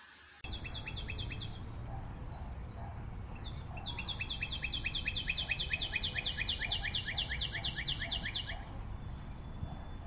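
Bird song: rapid trills of short falling whistled notes at about six or seven a second. A short trill comes near the start, then a longer, louder one runs for nearly five seconds from about four seconds in.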